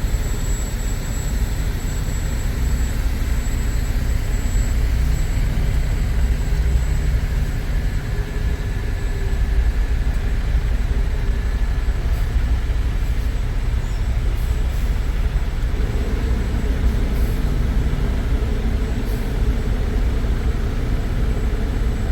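Steady low engine and road rumble of a semi truck, heard from inside the cab while it drives.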